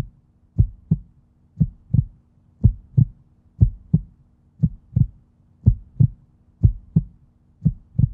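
Heartbeat sound effect: slow double thumps, lub-dub, about one beat a second, over a faint steady hum.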